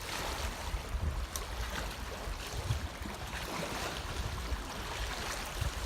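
Choppy lake water sloshing and lapping against a small inflatable boat, with low wind rumble on the microphone.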